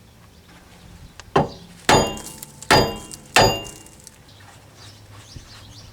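Four hammer blows, metal on metal with a ringing after each, on the nut threaded back onto the outer tie rod end stud of a C5 Corvette, to knock the tapered ball joint out of the knuckle.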